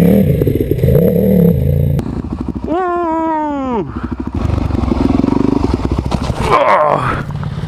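Suzuki DRZ462 big-bore single-cylinder four-stroke supermoto running through an MRD aftermarket exhaust. The revs go up and down, with a sharp drop in revs about three seconds in and another rise and fall near the end.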